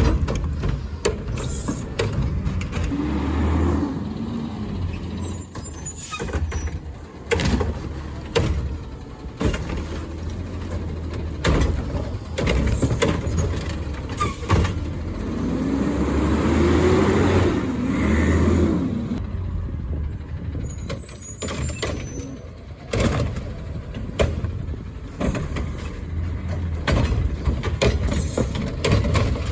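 Garbage truck's diesel engine running, revving up and down twice while working a collection stop, with repeated knocks and bangs and short hisses of air brakes.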